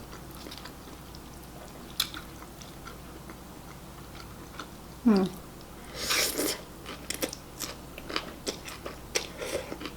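A person eating homemade ramen. There is a brief hum about five seconds in, then a loud slurp of noodles around six seconds, followed by chewing with small wet clicks.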